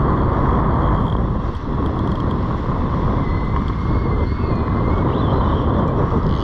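Strong wind buffeting the microphone: a loud, steady rumbling roar with no speech.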